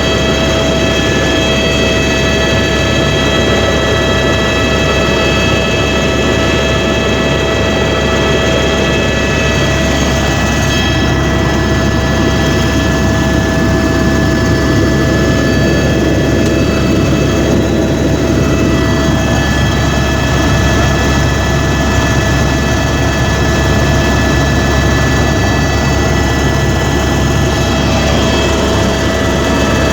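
Helicopter running steadily in flight: a constant low rotor and engine drone under a high, level turbine whine made of several fixed tones.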